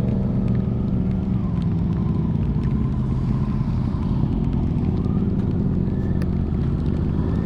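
Sport motorcycle engine running at highway speed, its pitch climbing as it speeds up just after the start and again near the end, over a steady low rush of wind.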